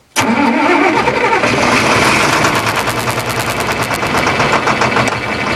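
John Deere 4020 tractor engine being cranked from cold on starting fluid: the starter cuts in suddenly, its pitch rising, and the engine fires in a rapid string of sharp pops while trying to catch.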